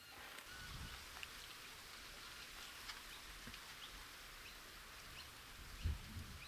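Faint outdoor riverside ambience: a steady hiss with scattered faint bird chirps. A low bump comes about a second in, and a louder one near the end.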